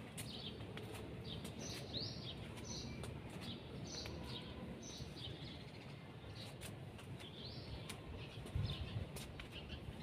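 Small birds chirping in the trees: short high notes, some sweeping up or down, repeating about once or twice a second over steady outdoor background noise, with a brief low bump near the end.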